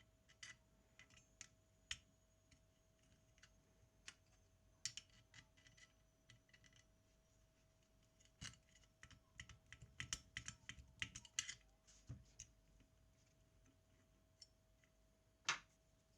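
Scattered small clicks and taps of hand tools and small metal camera parts being handled on a Zenit TTL film camera, busiest just past the middle, with one sharper click near the end. A faint steady hum sits underneath.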